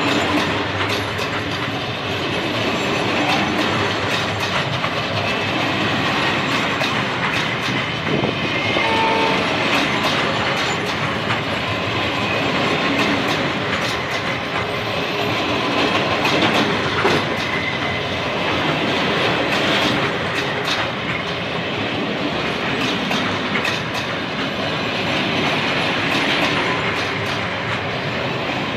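Freight train of empty stake flat wagons rolling past close by: a steady loud rumble of wheels on rail, with a continual clatter of clicks as the wheels cross rail joints.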